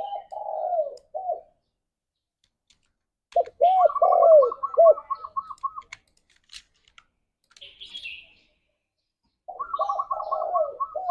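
Spotted dove cooing in three phrases of deep, arched coo notes. A higher, rapid series of short notes runs over the second and third phrases, and there is a brief high chirp in the gap before the last.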